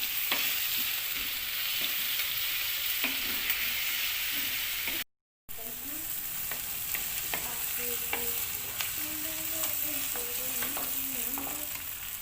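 Freshly added brinjal pieces sizzling in hot oil in a clay pot while a spoon stirs them, with many small scraping clicks against the pot. The sound cuts out for half a second about five seconds in.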